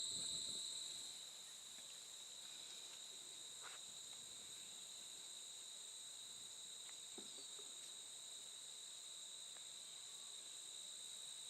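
Faint, steady, high-pitched trilling of crickets in an outdoor insect chorus, with a few faint soft ticks.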